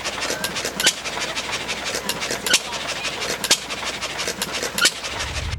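John Deere single-cylinder stationary gas engine running to power an ice cream churn. Each firing stroke is a sharp bang, coming roughly once a second at uneven spacing, with lighter ticks between them.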